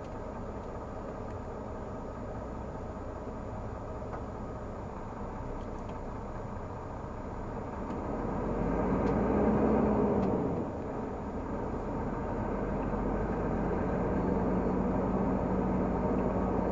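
Renault Magnum 480 truck's diesel engine pulling on the road with a steady drone. About halfway through it swells louder for a couple of seconds, drops off abruptly, and then builds up again.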